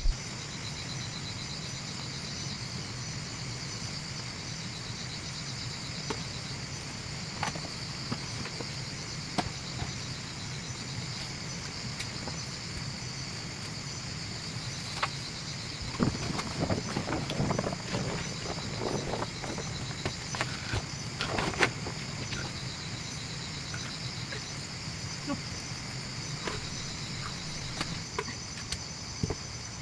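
Insects chirping steadily in fast, even pulses, with a low steady hum underneath and scattered rustling and knocks around the middle.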